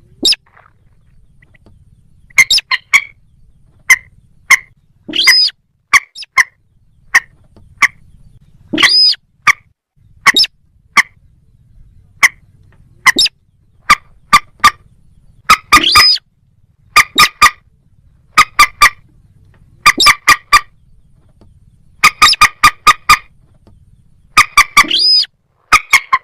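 Recorded calls of a moorhen and a little crake: many short, sharp call notes, single and in quick runs, broken by four longer calls that rise and fall in pitch.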